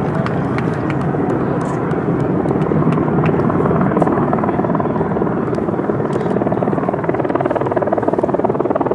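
Boeing 787 jet engines at takeoff power, a steady roar with a rapid crackle as the airliner climbs away.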